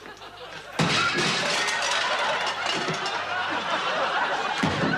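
Studio audience laughing, breaking out suddenly about a second in and carrying on loudly.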